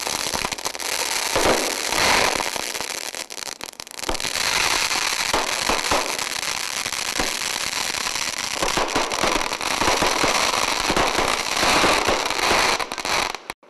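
A large pile of seized fireworks burning all at once: a dense, continuous crackling and popping, with many sharp bangs from firecrackers and aerial shells going off together. It eases briefly about four seconds in and cuts off suddenly just before the end.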